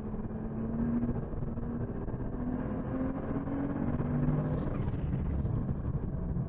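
BMW 1M's twin-turbo inline-six pulling hard under full throttle, heard from inside the cabin, its note climbing steadily with the revs over road and tyre noise. Near the end it comes off the throttle as the car brakes.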